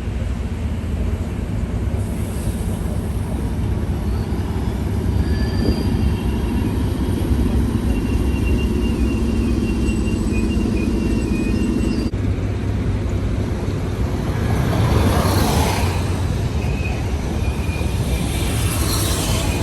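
Train running past close by: a steady heavy rumble with a low drone through the middle, thin high squeals, and a louder swell of noise about three quarters of the way in.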